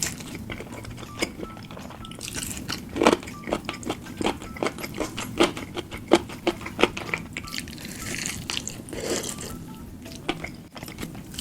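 Close-miked eating sounds: biting and chewing crunchy food, with a quick run of crisp crunches through the middle.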